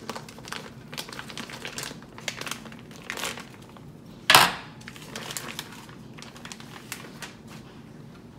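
Packaging around a yellowtail fillet crinkling and rustling as it is cut and pulled open, a run of short crackles with one louder rip about four seconds in.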